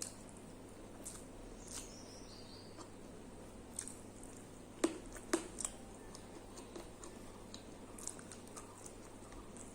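Eating sounds: soft chewing with scattered small wet clicks and mouth smacks, the two sharpest about five seconds in, over a faint steady hum.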